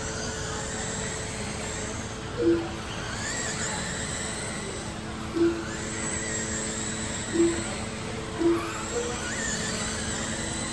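Electric RC sprint cars running laps, their motors making a faint high whine that rises and falls as they go round. Short single-pitch beeps sound six times at uneven intervals over a steady low hum.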